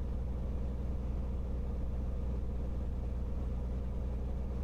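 Cirrus SR22T's turbocharged six-cylinder Continental TSIO-550 engine and propeller idling steadily, heard from inside the cabin as an even low hum.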